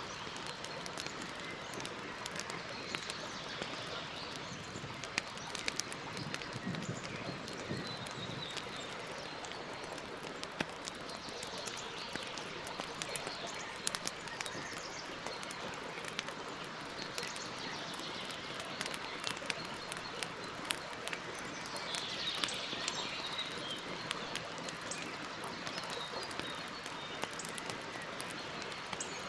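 Wood campfire burning steadily, crackling with many small sharp pops over a constant hiss. Birds chirp faintly in the background a few times.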